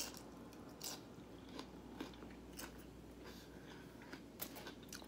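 A person chewing a mouthful of tortilla chips and chicken, faint and close, with soft irregular crunches and mouth clicks every half second or so.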